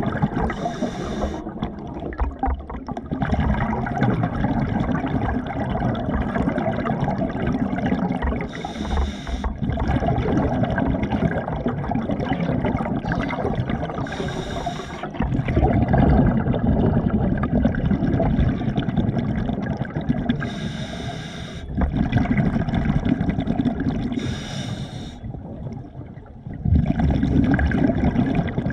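Water churning and sloshing close to the microphone, with brief splashy hisses every few seconds.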